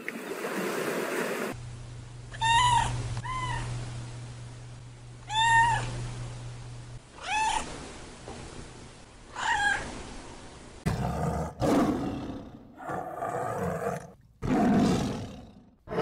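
Surf washing briefly, then a tabby cat meowing five times, each meow rising and falling in pitch. From about eleven seconds in, a tiger roaring in a series of rough bursts.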